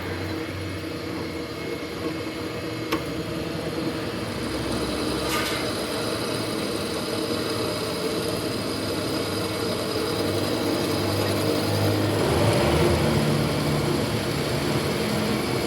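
A machine running steadily, with a couple of short clicks in the first half.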